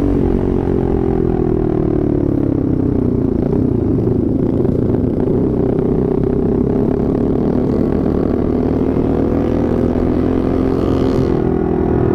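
Benelli 150S motorcycle engine running on the road. Its pitch falls over the first three seconds as the bike slows, then rises again from about four seconds in as it picks up speed, and then holds steady.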